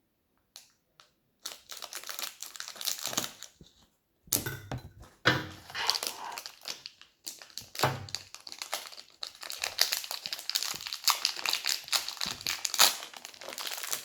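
Plastic blind-bag packaging being torn open and crumpled by hand, a dense crinkling with many small crackles that stops briefly about four seconds in and then carries on.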